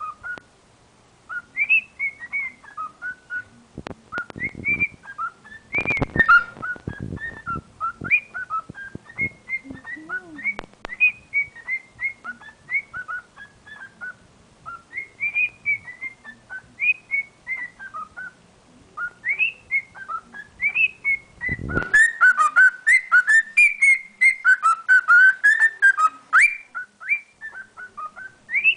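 Cockatiel whistling its song, a string of short notes that glide up and down, with a busier run of rapid, higher chatter about three quarters of the way through. A few sharp knocks sound now and then.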